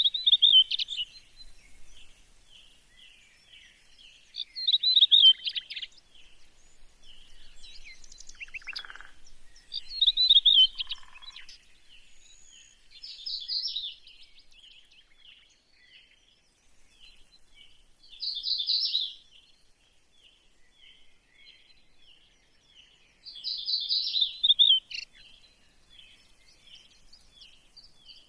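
Songbirds chirping: a steady run of short, high chirps with louder bursts of song every few seconds.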